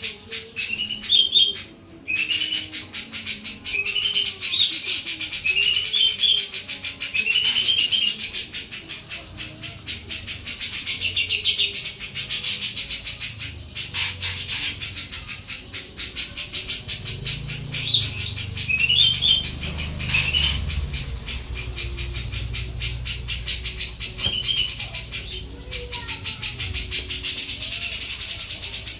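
A jenggot (grey-cheeked bulbul) singing at full intensity: a continuous, rapid, loud chattering song broken by short rising whistled phrases repeated every couple of seconds. A low rumble runs underneath through the middle.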